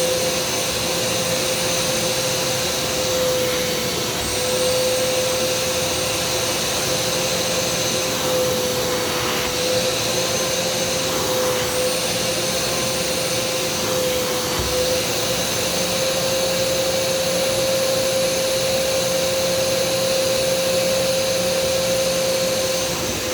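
Kärcher SE 4001 spray-extraction carpet cleaner running continuously with a steady motor hum. A thin high whine above it fades out and returns several times.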